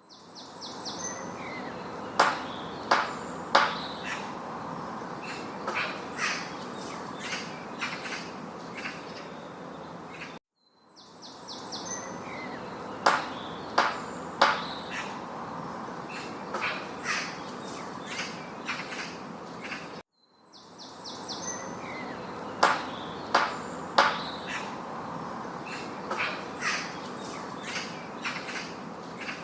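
Woodpecker and bird sounds: a few loud, sharp, separate knocks and short harsh calls over a steady outdoor hiss. A roughly ten-second recording loops three times, with a brief cut to silence before each repeat.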